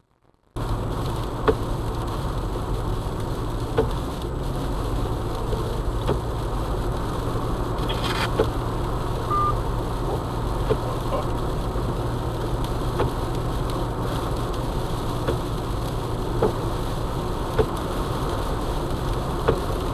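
Steady road and engine noise inside a moving car, starting suddenly about half a second in, with a low hum and scattered sharp ticks.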